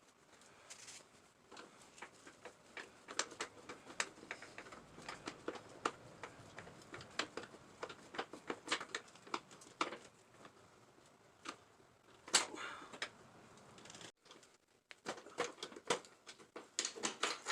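Small metal clicks and clinks of a hand wrench and socket working a motorcycle seat bolt loose, in irregular runs with a few louder knocks.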